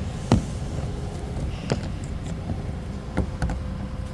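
Car engine idling steadily, with a few sharp knocks over it, the loudest about a third of a second in.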